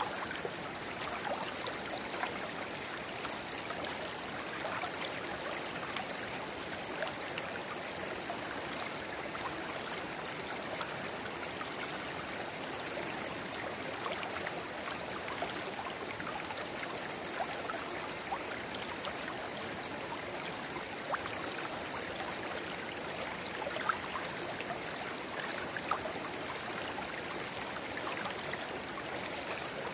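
Shallow river babbling steadily where a small spring-fed rivulet pours into it: a continuous rush of water with many small splashes and gurgles, a few of them a little louder late on.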